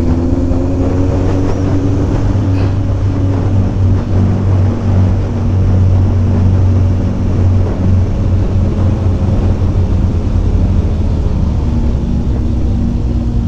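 Kawasaki Ninja ZX-14R's inline-four engine running on board while riding, with steady wind noise; the engine pitch shifts during the first couple of seconds, then holds steady.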